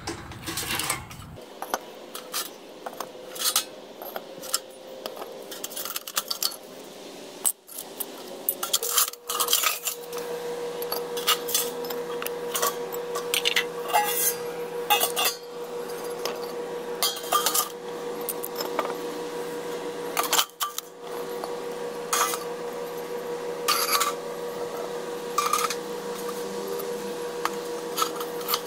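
Solidified spilled aluminum being pried and peeled off refractory furnace bricks: irregular metallic clinks, knocks and scrapes, some sharp and loud, scattered throughout.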